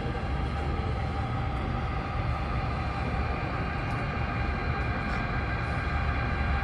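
A model train running on a layout: a steady low rumble with faint steady tones above it, unchanging throughout.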